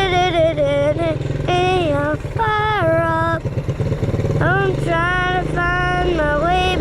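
A child's voice singing wordless, gliding notes, one after another, over a small quad engine running steadily underneath.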